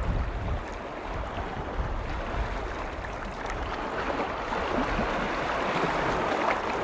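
Lake waves washing against the shore, a steady rushing wash that swells in the second half, with wind rumbling on the microphone.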